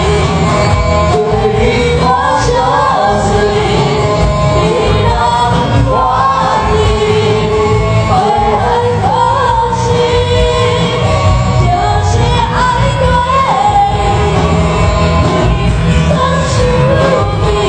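A band playing a pop song live, with a lead singer's melody over a full backing of bass and drums.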